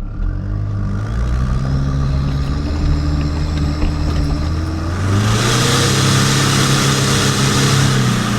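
Compound-turbocharged Toyota 3L four-cylinder diesel in a Hilux running under load, then revving up about five seconds in and holding the higher revs. A loud rushing hiss rides over the engine while it is up on revs.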